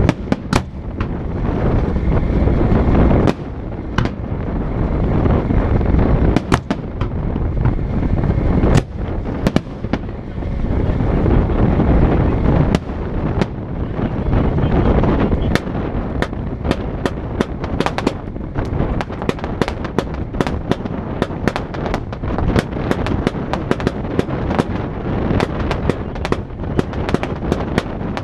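Fireworks display: heavy booming from shell bursts runs on as one continuous rumble, with sharp cracks over it. In the second half the cracks come thick and fast as crackling effects.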